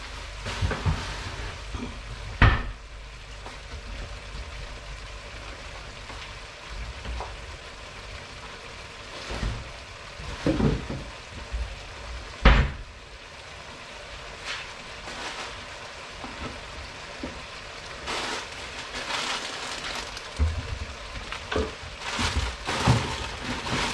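Squid adobo sizzling and bubbling in a wok as its sauce cooks down: a steady hiss with scattered pops, busier in the second half. Two sharp knocks stand out, a couple of seconds in and about halfway.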